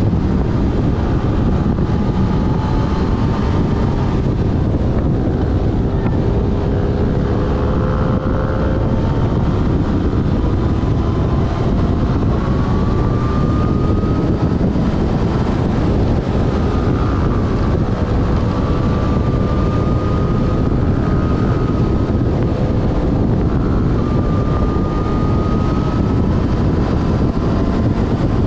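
Yamaha Fazer FZ6S's 600 cc inline-four engine running at road speed, its pitch slowly rising and falling, under steady loud wind noise on the camera microphone.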